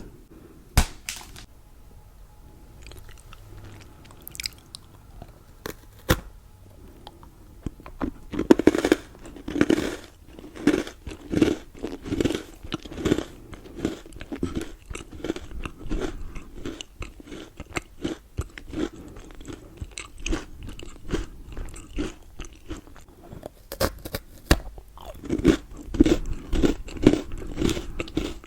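Milka chocolate being bitten and chewed, close up: a few sharp snaps of bites in the first seconds, then steady chewing at about one chew a second from about a third of the way in. A crunchy bite comes shortly before the end, followed by more chewing.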